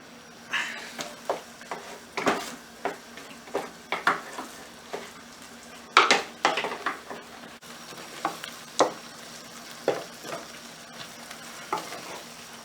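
Spatula stirring and scraping a thick chicken bharta in a pan over high flame, in irregular strokes about twice a second, with a light sizzle underneath.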